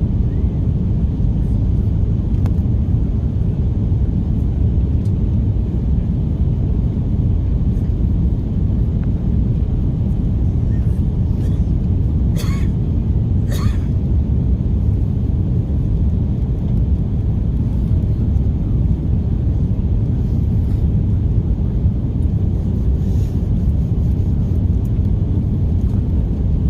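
Steady low rumble of an Airbus A330-300 cabin: engine and airflow noise heard from a passenger seat. A couple of faint short clicks come about halfway through.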